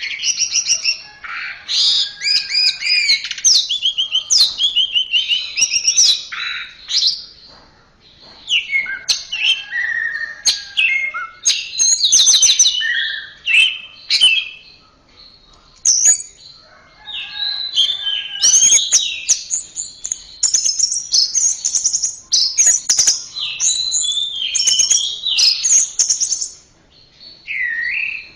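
Orange-headed thrush singing a long, varied song of fast whistled and chattering phrases, with short pauses between bursts.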